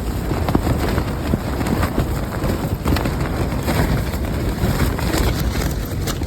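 Violent gusting wind with a heavy low rumble of wind on the microphone, broken by many short sharp flaps and knocks from things being buffeted.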